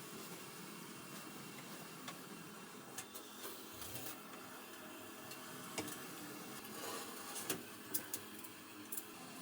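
A few scattered light clicks and taps over a steady low hiss, most of them in the second half.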